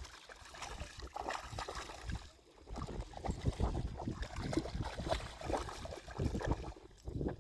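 Shallow water splashing and sloshing irregularly as a dog moves about in it, with a brief lull about two and a half seconds in.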